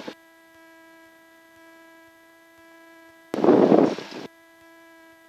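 Steady electrical hum in the aircraft's headset/intercom audio, a single pitched tone with even overtones. About three and a half seconds in, a loud rush of noise cuts in for just under a second and stops abruptly.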